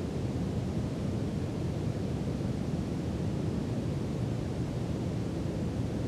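Brown noise: a steady, deep hiss, strongest in the low end and thinning toward the highs, unchanging throughout.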